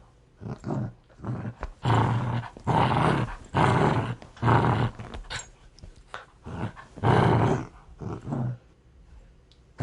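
A dog growling aggressively in a series of short, rough, snarling bursts, each about half a second long, with brief pauses between them. The growls grow fainter near the end.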